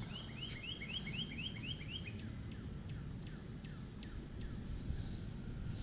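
Bird song: a fast trill of about ten chirps over the first two seconds, then a few short high whistled notes near the end, over a low steady rumble.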